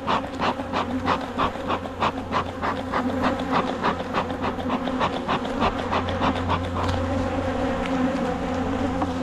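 Honeybees buzzing steadily around an opened hive, with a rapid run of short ticks, about four a second, that stops about seven seconds in.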